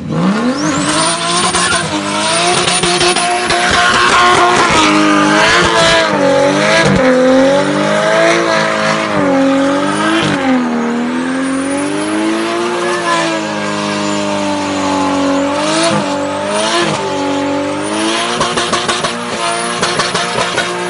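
Turbocharged Nissan RB straight-six held at high revs during a burnout, its pitch dipping and climbing again several times as the throttle is worked, over the hiss and squeal of spinning rear tyres. Near the end the engine note pulses quickly.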